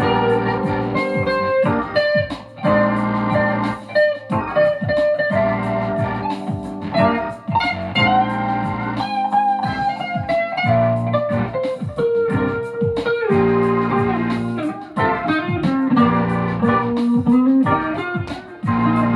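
Blues-style electric guitar music: plucked notes and bends over sustained lower notes.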